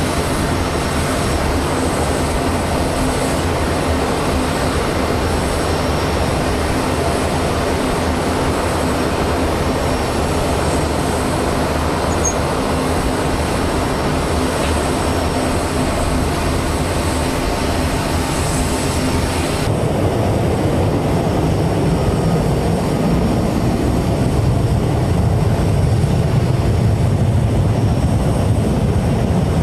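Steady loud aircraft engine noise with a constant hum; about twenty seconds in it changes abruptly to a deeper rumble.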